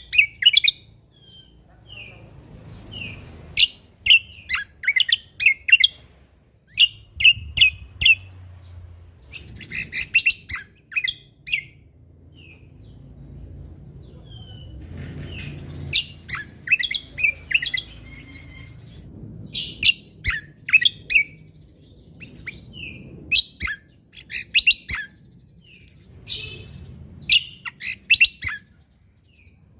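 Cucak kombo (kecial kombo) songbird singing: loud bursts of rapid, sharp high notes, each burst a second or two long and a few seconds apart, with short single whistled notes in the gaps.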